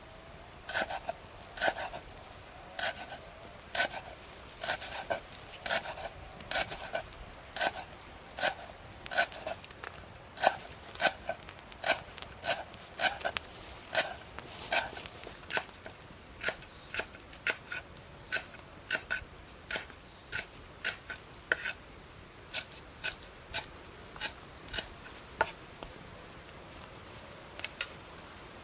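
A knife chopping on a cutting board in steady, evenly spaced strokes, about one and a half a second, trailing off near the end.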